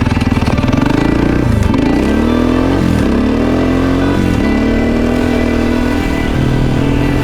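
Dirt bike engine pulling away and accelerating through the gears: the pitch rises and drops sharply at three upshifts, then holds at a steady cruise.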